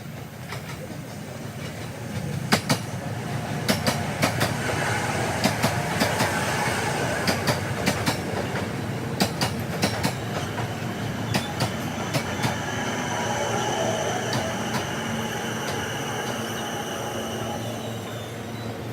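Train running on the rails, its wheels clicking over rail joints in quick runs of sharp clicks through the first two-thirds, with a steady rumble and high whine. The audio is played at double speed, so the clicks come fast and everything sounds pitched up.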